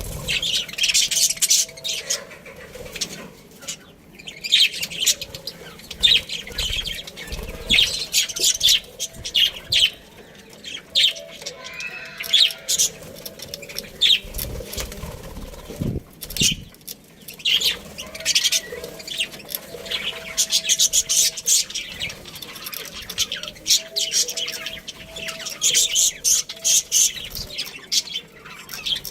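A colony of budgerigars chirping and chattering continuously, many quick high chirps overlapping, with short lulls.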